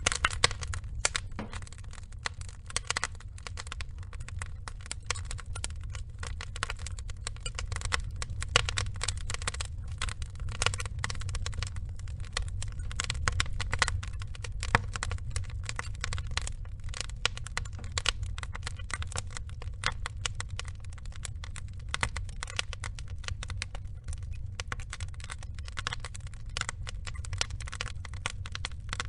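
Log fire burning, with dense, irregular crackles and pops over a low steady rumble.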